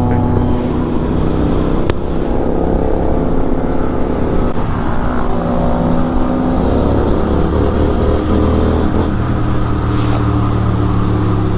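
Motorcycle engine running at steady revs while riding, its pitch drifting only slightly, over a constant rush of noise.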